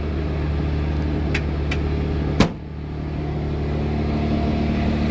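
A car engine idling steadily, with two light clicks and then one sharp thump about halfway through.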